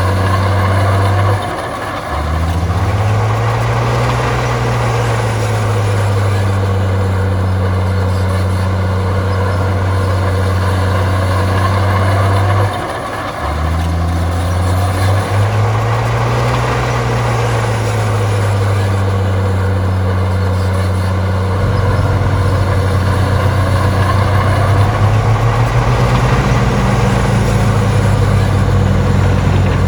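Heavy diesel engine of earthmoving machinery running under load. Twice the engine note drops briefly, then swells up and settles back, and it turns rougher and a little louder in the last third.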